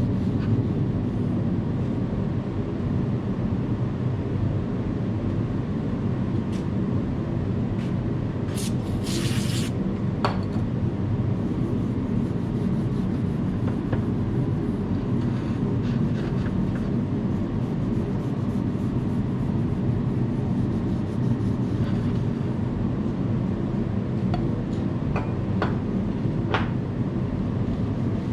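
An engine running steadily, with scattered small clicks and knocks over it and a short hiss about nine seconds in.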